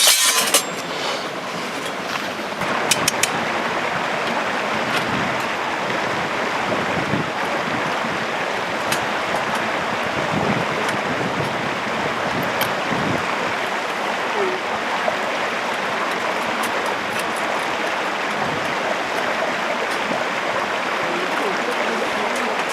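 Steady rushing outdoor noise, like flowing water or wind, holding an even level throughout, with a few faint ticks scattered over it.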